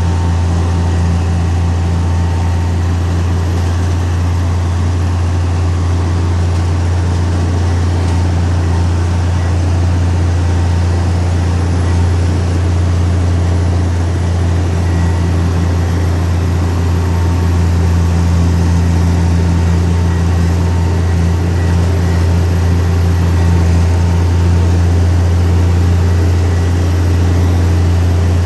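Heavy earthmoving machine's diesel engine running as a steady low drone, without revving or breaks.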